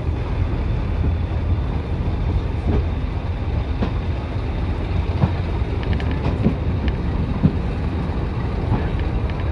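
Heritage diesel train running, with a steady low rumble and scattered short knocks.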